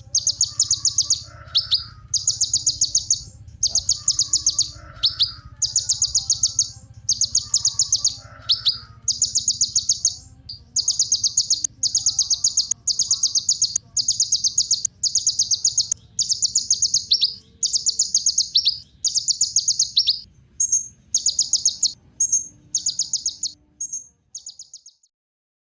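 Kolibri ninja sunbird singing: bursts of very fast, high trilled notes about a second long, repeated roughly once a second, fading out and stopping near the end.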